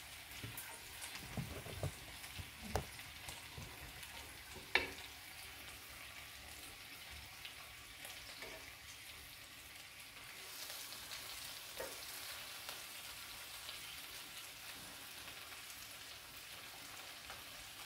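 Chicken thighs and onions sizzling gently in a stainless steel frying pan, with a few clicks of a spatula and tongs against the pan, the sharpest about five seconds in. The sizzle grows a little louder after about ten seconds.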